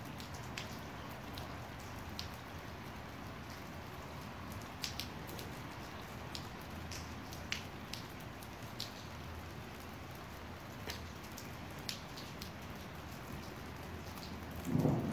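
Steady rain falling, with scattered close drops ticking on a nearby surface. Near the end a low rumble of thunder begins and grows louder.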